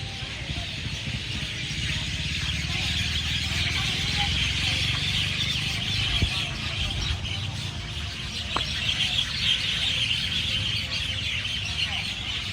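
A large flock of birds calling all at once, a dense, unbroken mass of high chattering and twittering, with a low rumble underneath.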